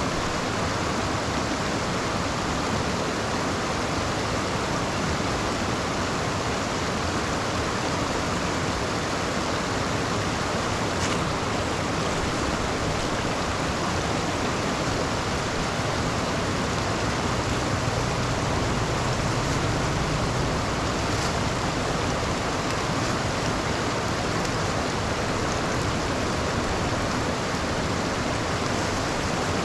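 Steady rush of water: rain and floodwater pouring into a street storm drain. A low rumble swells briefly about two-thirds of the way through.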